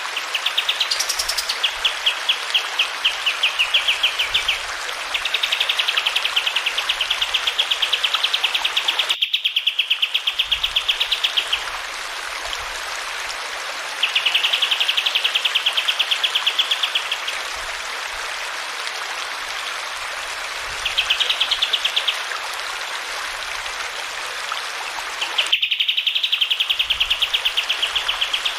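Kapas tembak songbird singing fast, rolling trills of rapidly repeated high notes in bursts of a few seconds, with pauses between them, over a steady rush of running water. The sound breaks off abruptly twice, like splices in a looped recording.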